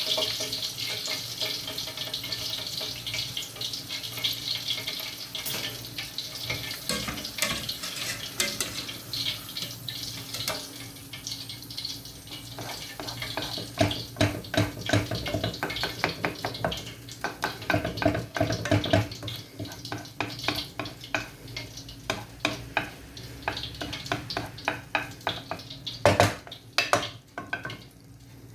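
Kitchen cooking sounds: a utensil scraping and knocking against a pot or bowl in runs of stirring strokes, over a hiss that fades out during the first several seconds. A few louder knocks come near the end.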